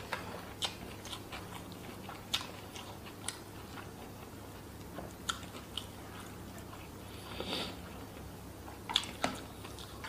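Close-miked chewing and crunching of fried fish and rice, with scattered sharp clicks and crackles as fingers pick flesh off the fish bones.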